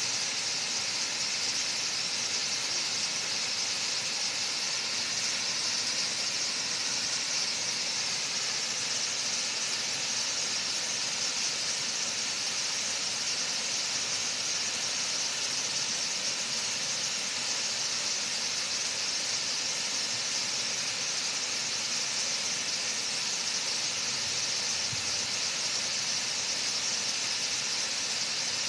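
Waterfall with a heavy flow, the water pouring down in a steady, even rush that sits mostly high in pitch.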